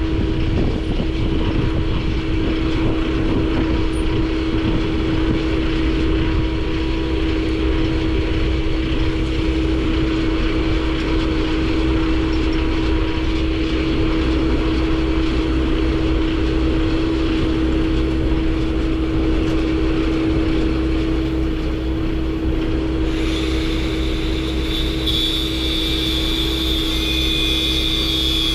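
Steady drone of a vehicle running, with a constant hum over a low rumble. About 23 seconds in, a higher hiss joins it.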